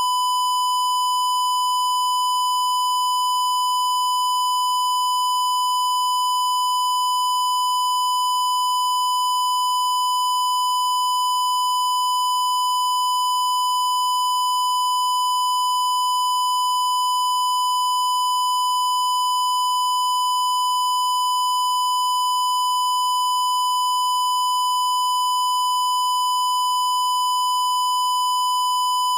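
Steady, loud electronic tone at about 1 kHz with faint higher overtones, held without a break or change in pitch, like a test tone or censor bleep.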